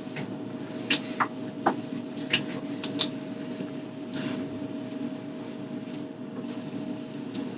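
Light clicks and knocks of plastic and glass containers being handled and set down while a fridge is cleaned out, several in quick succession in the first three seconds and one more near the end, with a brief rub about four seconds in. A steady hum runs underneath.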